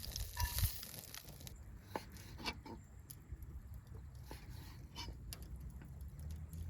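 Steak sizzling in a cast-iron skillet, the sizzle dying away in the first second or so, followed by scattered light clicks and ticks.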